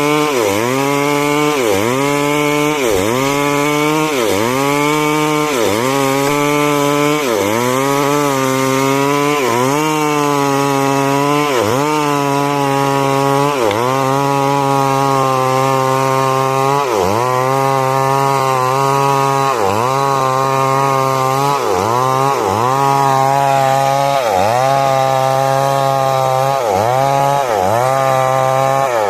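Stihl MS 382 two-stroke chainsaw running at high revs and cutting wood. Its engine note drops under load and recovers again, over and over, about once every second or so.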